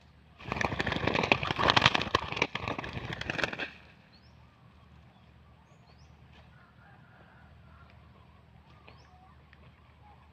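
A bird's wings flapping hard for about three seconds, a rapid flurry of strokes that stops suddenly.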